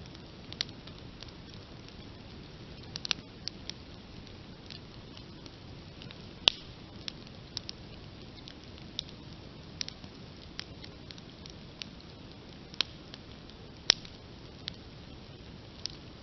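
Open campfire crackling: irregular sharp pops and snaps from the burning wood over a steady low hiss. Two louder pops come about six seconds in and again about fourteen seconds in.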